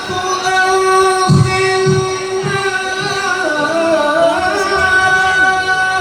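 A qari's voice in melodic Quran recitation (tilawah). He holds one long high note for about three and a half seconds, then breaks into wavering ornaments that wind lower.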